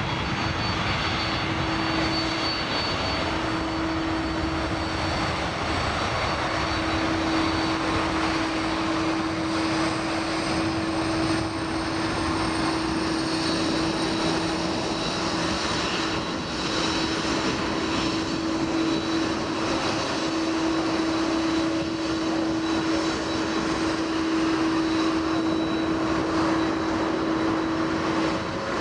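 Turbofan engines of a KLM Airbus A330-200 running: a steady dense drone with a constant low hum and a thin high whine above it.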